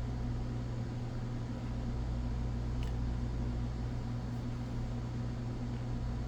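Steady low electrical hum with a hiss, unchanging throughout, and one faint small tick about three seconds in.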